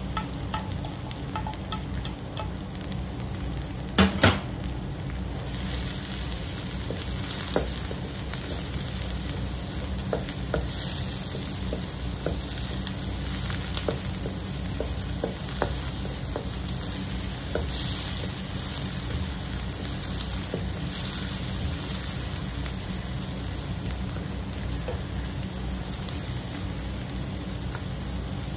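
Chopped onion and garlic sizzling steadily in hot oil in a wok as they are stirred with a slotted spatula, with light clicks of the spatula against the pan and two louder knocks about four seconds in.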